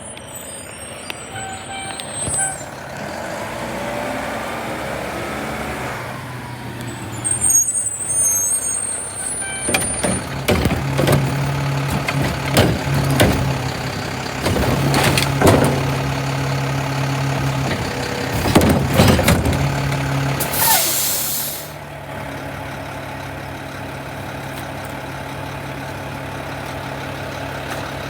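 Garbage truck's diesel engine running while it picks up and empties a trash can, with repeated clanks and bangs from about ten to twenty seconds in. A sharp hiss of the air brakes comes about twenty seconds in, and the engine then idles.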